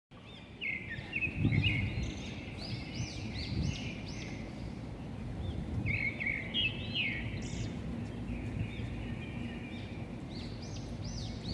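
Small birds chirping in short clusters of quick rising-and-falling notes, over a steady low background rumble.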